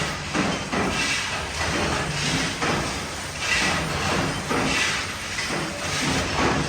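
Hex nut factory machinery running, with a clatter of strokes repeating at a regular pace over a steady mechanical noise.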